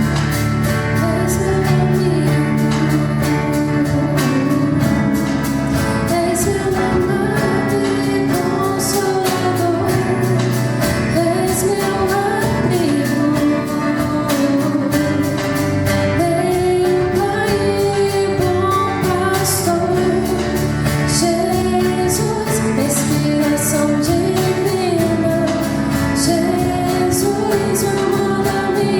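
A live band playing: a woman sings a melody over acoustic guitar, piano and drums, with steady cymbal strokes.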